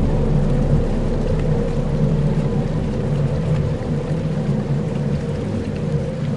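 Dark ambient soundscape: steady low droning tones under a rain-like hiss and rumble, with a few faint ticks. The deepest rumble fades out about two and a half seconds in.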